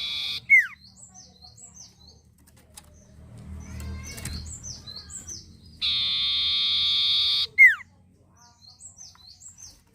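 Sirtu songbird singing: a long, steady buzzing trill that ends in a sharp, loud downward whistle, given twice, with runs of short high falling chirps in between.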